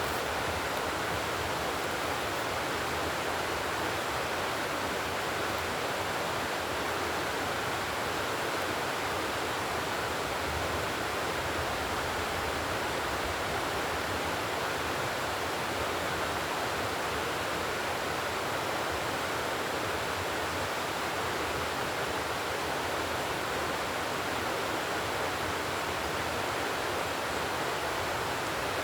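Steady, unbroken rushing noise with no clicks, pauses or changes in level.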